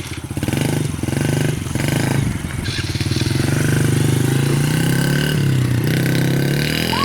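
Small 50cc motorcycle engine running, its revs rising and falling as it is ridden.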